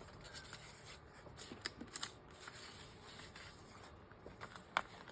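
Sheets of paper rustling and ticking softly as they are handled and rearranged by hand, with a sharper tick near the end.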